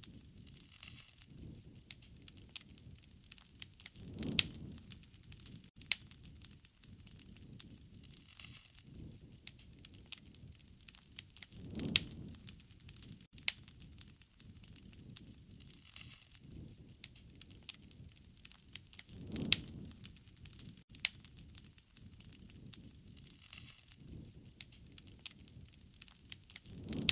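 Wood fire crackling, with frequent sharp pops and snaps over a soft low rumble that swells up about every seven and a half seconds.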